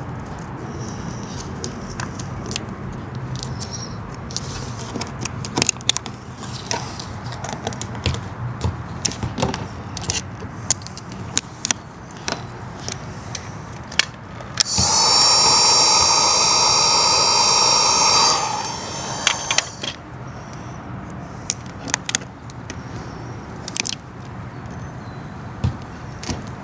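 Scattered clicks, taps and scrapes from hands and tools working vinyl wrap onto car trim. About fifteen seconds in, a small motor whines loudly for a few seconds, rising in pitch as it starts, then stops.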